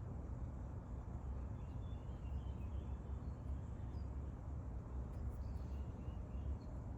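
Faint birdsong from a nature-sounds background track: a few short, high chirps now and then over a steady low rumble.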